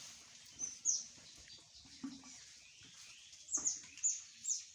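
Birds chirping: short, high, falling chirps, a couple about a second in and three in quick succession near the end.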